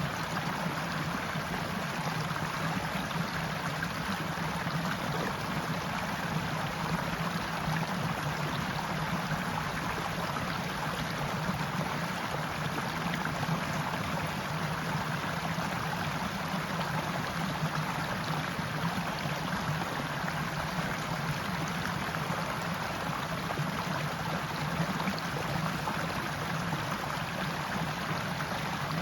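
Stream water running steadily, an even, unbroken sound of flowing water with no distinct events.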